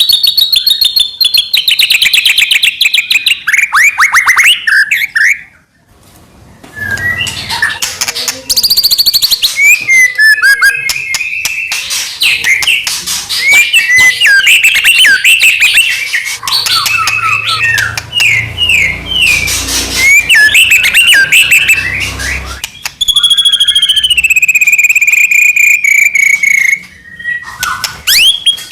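White-rumped shama (murai batu) singing loudly and without let-up: long falling notes broken into fast rattles, mixed with quick, varied chattering phrases, with a short pause about five seconds in.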